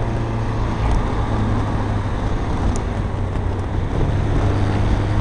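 Renault Kangoo's diesel engine running steadily under load at speed, with tyre and wind noise.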